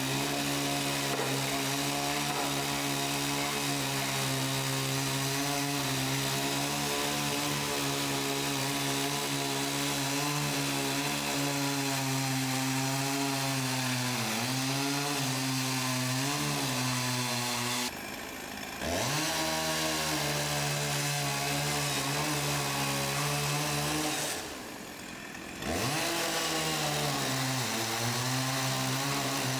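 A motor-driven saw running steadily as it cuts wood, its pitch sagging now and then under load. It drops out sharply twice and winds back up each time.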